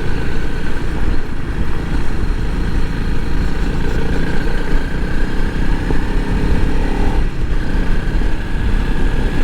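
2021 Honda CRF300L Rally's single-cylinder engine running steadily under the rider at low speed.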